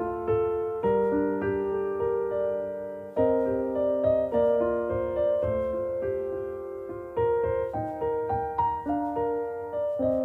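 Background music: a slow piano piece, notes and chords struck one after another and left to ring and fade.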